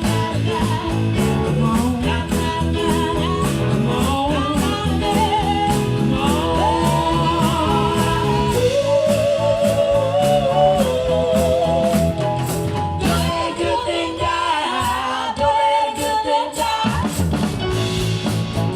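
A band playing a roots-rock song with guitar and drums on a steady beat, under a sung melody line with a wide vibrato. The low end drops away about two-thirds of the way through and comes back near the end.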